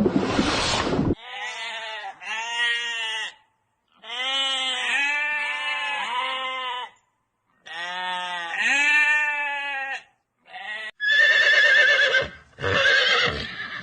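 About six bleating calls, coming in three pairs with short silences between them, each call arching up and down in pitch. Near the end a horse whinnies with a high, wavering call.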